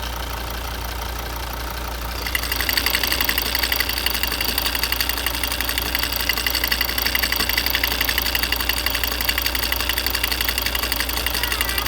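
Volvo XC70 D5 diesel engine idling, heard at the open oil filler neck, with a fast, even knocking from inside the engine. About two seconds in the knocking becomes much louder and clearer.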